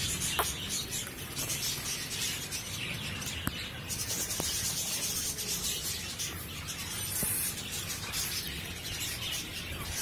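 Kept birds chirping and cheeping together in a steady chatter, with a few sharp clicks now and then.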